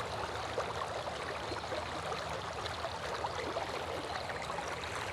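Flowing river water, a steady babbling rush with many small splashes.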